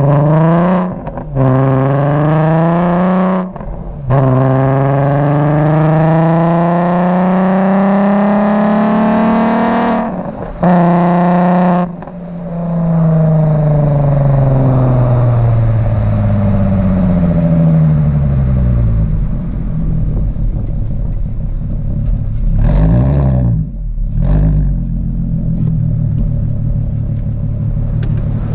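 MK4 Volkswagen Golf R32's 3.2-litre VR6 engine through a Milltek exhaust, accelerating hard up through the gears with a short break in the note at each of three shifts. The revs then fall away as it slows and settle to a low steady note, with a short blip of revs near the end.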